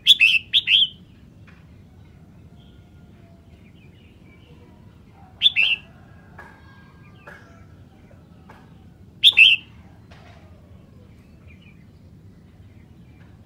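Red-whiskered bulbul singing in short loud phrases: a quick double note at the start, another phrase about five and a half seconds in and a third about nine seconds in, with faint chirps between.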